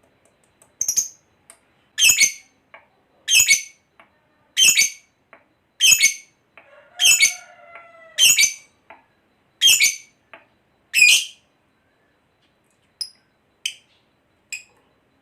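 Lovebird giving a series of sharp, high single squawks, about one every second and a half, nine in a row, then a few fainter ones near the end.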